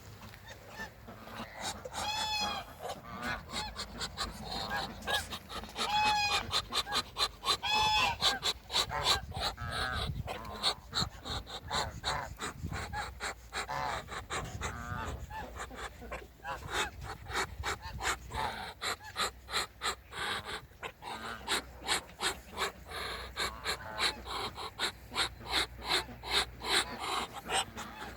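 A flock of farm waterfowl honking and calling, several birds at once, with short calls repeating rapidly throughout and a few louder drawn-out honks in the first third.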